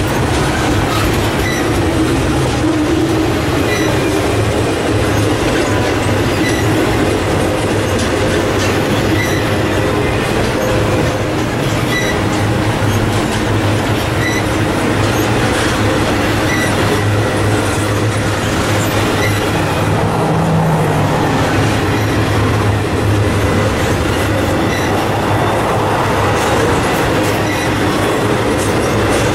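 Freight train rolling past on the main line: a steady, loud rumble of wheels on rail, with small clicks repeating about every second and a half.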